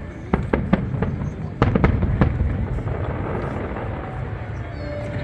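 Aerial fireworks shells bursting: about seven sharp bangs in the first two and a half seconds, followed by a low rumbling echo that slowly dies down.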